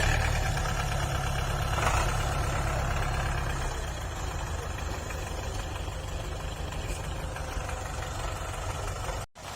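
Diesel tractor engines running under load, louder for the first few seconds and then easing off a little. The sound drops out abruptly for a moment near the end.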